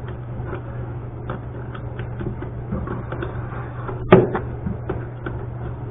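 Hand tool and needle-nose pliers clicking and clinking against a toilet's rusty floor bolt and nut while the nut is worked loose, with one louder knock about four seconds in. A steady low hum runs underneath.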